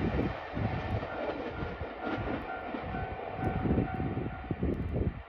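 A train running through the station at speed: heavy rumbling with repeated low wheel thumps. The noise drops away suddenly near the end.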